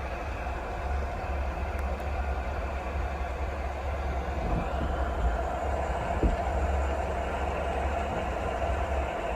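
Steady rain noise, a constant even hiss with a deep low rumble underneath.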